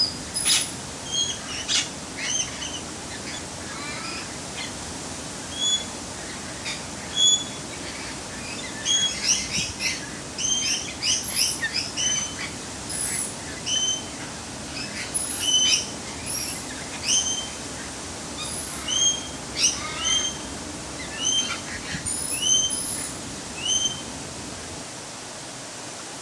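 Birds calling: short, rising whistled notes repeated about once a second, coming in a quicker cluster about nine to twelve seconds in, mixed with sharp chirps, over a steady background hiss.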